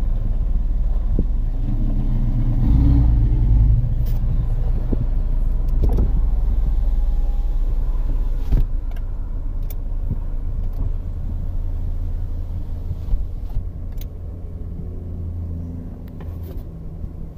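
2013 Chevrolet Equinox 2.4L inline-four engine running with a steady low rumble, swelling briefly a couple of seconds in and easing off gradually toward the end, with a few light clicks over it.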